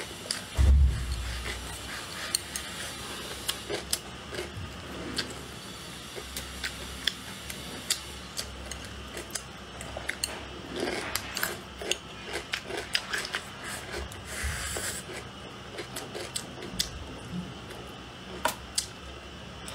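Close-miked eating: chewing and crunching of stir-fried food, with many small sharp mouth clicks throughout. A low thump about a second in is the loudest sound.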